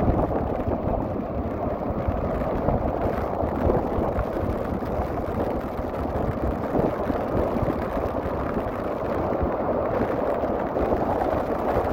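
Strong wind buffeting the microphone over the steady rush of heavy storm waves breaking on the shore.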